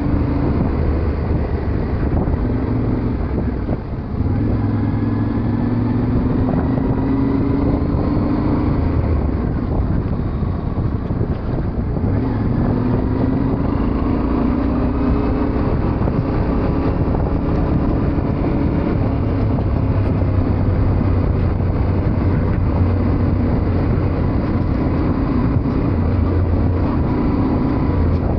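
Yamaha Ténéré 700 parallel-twin engine running under way, its pitch rising and falling with the throttle, with wind and road noise over the microphone.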